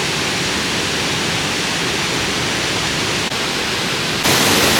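Waterfall rushing: a loud, steady roar of falling water. It gets louder about four seconds in, where the clip changes.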